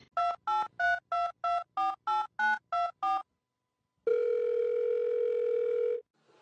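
Touch-tone telephone dialing: about ten quick beeps of keypad tones, followed about a second later by one steady telephone tone lasting about two seconds.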